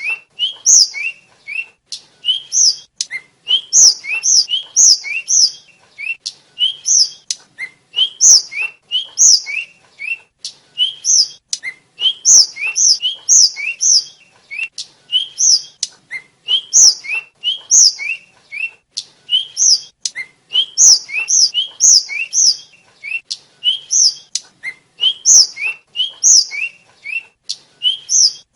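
Blue flycatcher (tledekan / sulingan) singing: a steady run of short, high whistled notes that slide in pitch, delivered in quick phrases of a few notes, over and over.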